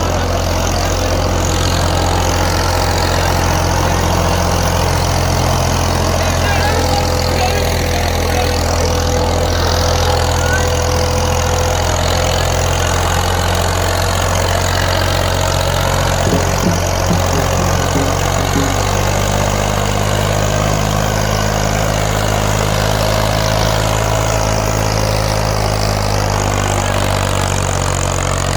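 Massey Ferguson 240 tractor's three-cylinder diesel engine running steadily as it pulls a disc harrow, its note changing about two-thirds of the way through.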